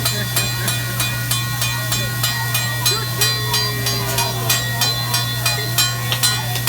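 Hibachi chef's metal spatula and fork tapped in a steady rhythm on the steel griddle, about four clicks a second, over a steady hum and hiss from the cooking.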